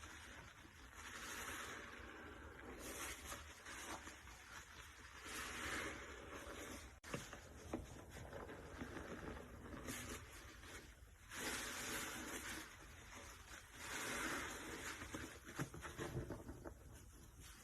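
Wet, soapy sponge squeezed over and over, giving repeated squishing, squelching swells of liquid about every one to two seconds.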